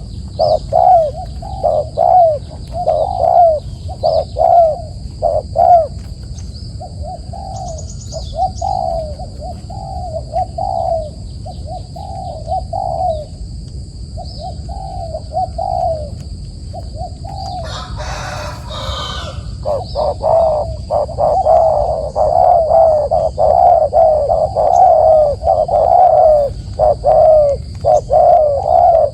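A dove cooing over and over in short repeated notes, sparse in the middle and packed close together over the last third. There is a brief rustle a little past the middle, and a faint steady high whine runs underneath.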